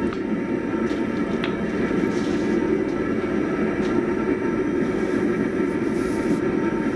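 Steady mechanical running noise from forge-shop equipment, even throughout, with a few faint ticks.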